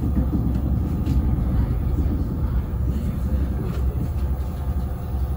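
Steady low rumble of a passenger train rolling along the track, heard from on board.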